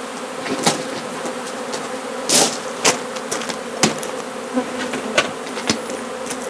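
Honey bee swarm buzzing as a steady hum of many bees in flight, with scattered sharp clicks and ticks and a brief louder rush about two and a half seconds in.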